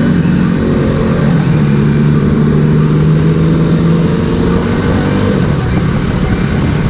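Motorcycle engine running at a fairly steady cruise, heard from the rider's camera with wind and road noise.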